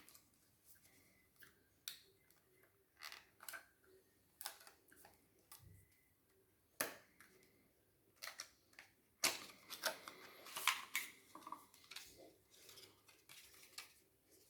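Apple MagSafe charger's cardboard box being handled and opened: faint scattered clicks, scrapes and rustles of packaging, with a sharp click about seven seconds in and a busier stretch of rustling around ten seconds.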